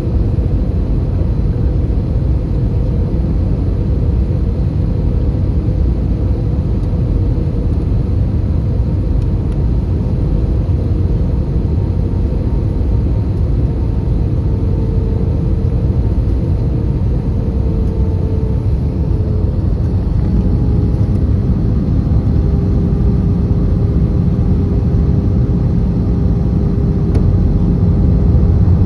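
Airbus A320 cabin noise in flight: a steady low rumble of the engines and airflow, with a faint engine tone that drops a little in pitch about halfway through.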